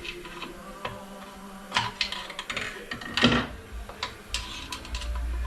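Metal parts of a Ford AOD automatic transmission clinking and knocking as it is taken apart by hand, with a scrape about three seconds in. A steady low hum comes in near the end.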